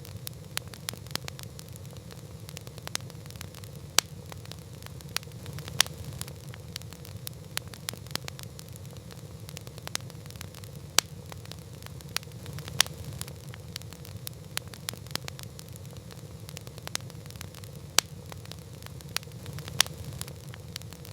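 Wood campfire crackling: irregular sharp pops and snaps, some much louder than others, over a steady low rumble of the burning fire.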